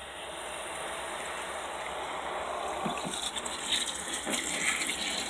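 Water rushing and sloshing in the tub of a small portable washing machine as the wash cycle is switched on, a steady rush that slowly grows louder.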